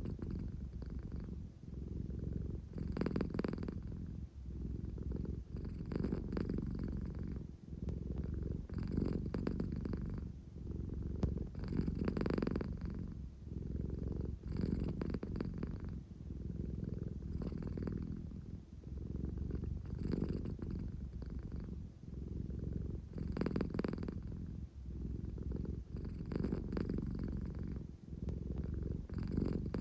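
American Shorthair cat purring steadily and close up, the purr swelling and easing with each breath about every three seconds.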